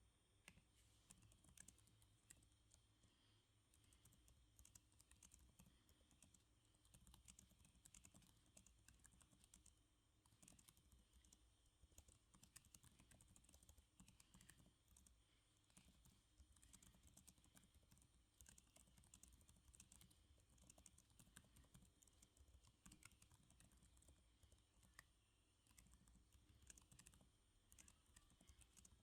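Faint, continuous typing on a computer keyboard: a steady, irregular patter of key clicks.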